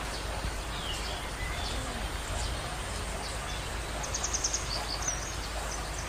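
Birds chirping and calling over a steady background hiss, with a quick run of high chirps about four seconds in.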